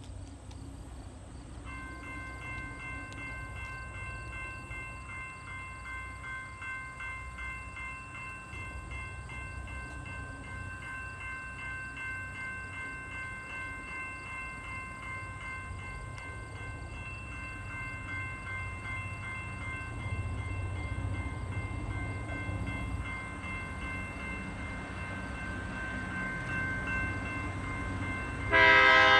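A railroad crossing bell rings steadily from about two seconds in, over the low rumble of approaching diesel freight locomotives that grows louder. Near the end a locomotive air horn sounds loudly.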